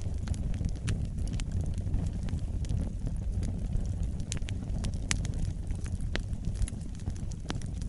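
Wood fire burning in a fireplace: a steady low roar of the flames with irregular sharp crackles and pops, several a second.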